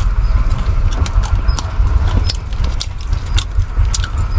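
Close-up chewing with irregular crisp crunches, a few each second, as dry uncooked instant noodles are eaten. Under it runs a steady low rumble inside the car.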